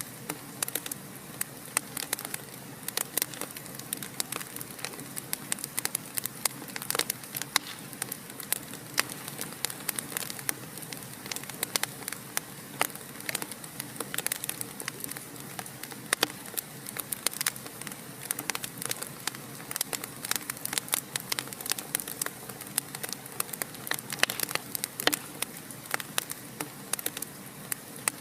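Wood fire crackling, with frequent irregular sharp pops and snaps over a soft steady hiss.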